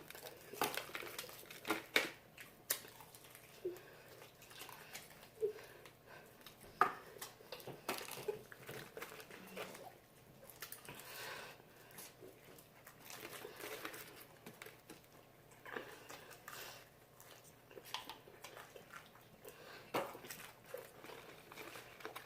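Eating fried chicken wings: faint, scattered crunches, clicks and rustles from biting, chewing and handling the crispy wings.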